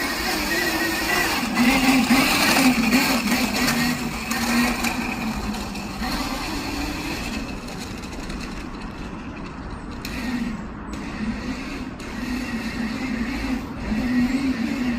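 Electric motor of a Gecko Mini 1.4 kids' electric dirt bike whining as it is ridden, its pitch wavering up and down with the throttle, louder in the first half, easing off in the middle and picking up again near the end.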